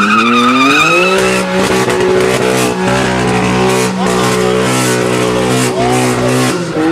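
Lamborghini Huracán's naturally aspirated V10 revved up and held at steady high revs for about five seconds, then letting off near the end.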